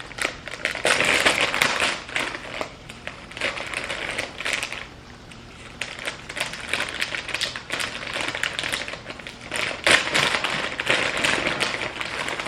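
Irregular crinkling and clicking of plastic food packaging being handled and opened, with a quieter lull about halfway through.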